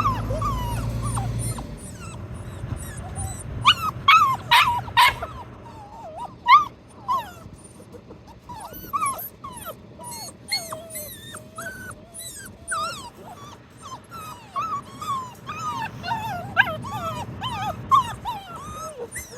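Several young puppies whining and yipping continuously in short, high-pitched cries, with a few louder yips about four to five seconds in.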